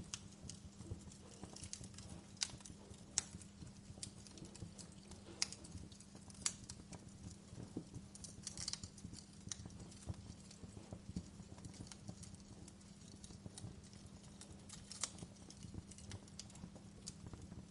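Wood fire in a fireplace crackling, with irregular sharp pops and snaps, the loudest a few seconds in and again near the end, over a low steady hum.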